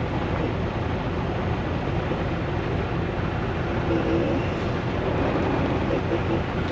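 Semi truck running: a steady low engine and road rumble, with faint wavering tones joining about four seconds in.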